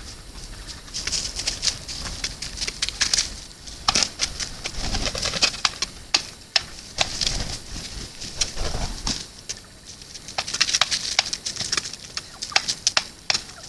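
Birds feeding at a feed spot: irregular runs of sharp pecking and scratching clicks and rustling.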